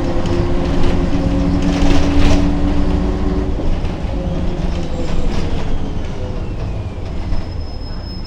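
Ikarus 280 bus running under way: a loud, steady low diesel drone with several whining tones that stop about three and a half seconds in. After that, a whine falls in pitch and the noise gradually gets quieter.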